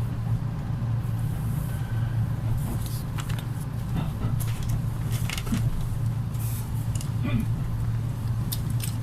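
Interior of an electric commuter train: a steady low hum with scattered clicks and knocks.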